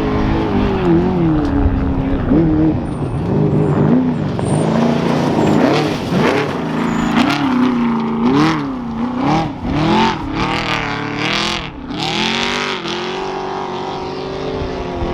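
Trophy truck engine revving hard, its pitch climbing and dropping again and again as the throttle is worked, with short surges of rushing noise as it goes by.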